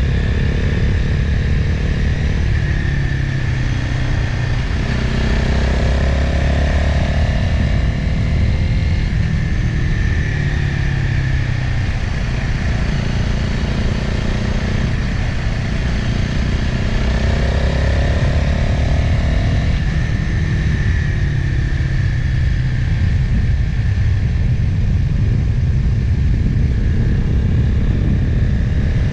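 Motorcycle engine running while riding downhill, its revs rising and falling through the bends, over a steady low rumble.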